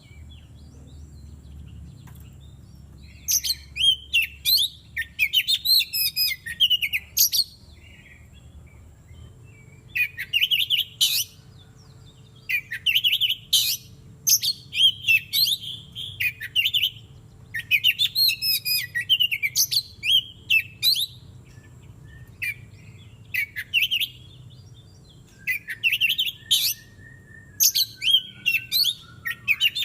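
Oriental magpie-robin singing in repeated bursts of quick, varied, high whistled phrases, each a second or two long, separated by short pauses, with a slower falling whistle near the end.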